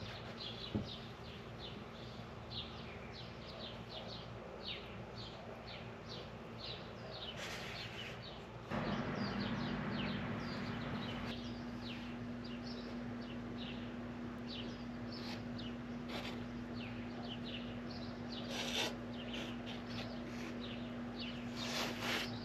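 A bird chirping over and over, short falling chirps two or three a second. About a third of the way in a steady low hum starts and keeps on.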